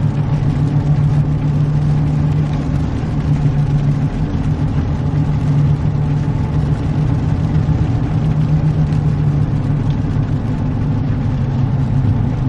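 Car driving, heard from inside the cabin: a steady low engine and road drone.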